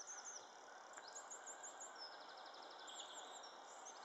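Faint small-bird chirps and calls, with a quick trill of rapid repeated notes about two seconds in, over a faint steady hiss.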